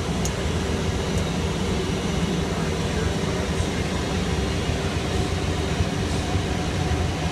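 Boeing 757 engine and airflow noise: a steady, unchanging roar with a low droning hum underneath.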